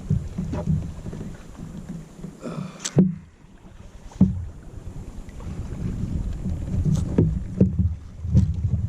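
Sit-on-top fishing kayak on the open ocean: wind buffets the microphone as a steady low rumble, broken by several sharp knocks and clicks on the hull and gear, a few around the middle and a cluster near the end.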